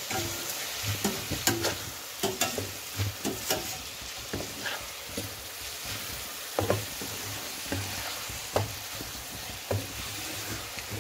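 Chicken and vegetables (cabbage, peas, green pepper) sizzling in a large black pan while a wooden spatula stirs them. The spatula scrapes and knocks against the pan over and over at an irregular pace, mixing in the just-added spices.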